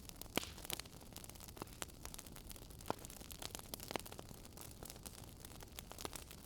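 Wood fire crackling in a fireplace: irregular sharp snaps and pops, several a second at times, over a soft, steady hiss.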